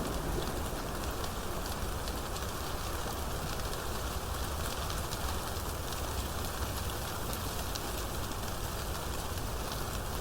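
Steady rain falling in a thunderstorm, a dense hiss with fine drop ticks and a low rumble underneath. The tail of a thunder roll dies away at the very start.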